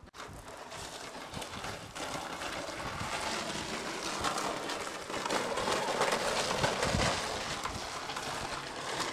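A sled sliding down a snowy slope, a steady scraping hiss over the snow that grows louder, peaks about two-thirds of the way through with a few low bumps, then eases off.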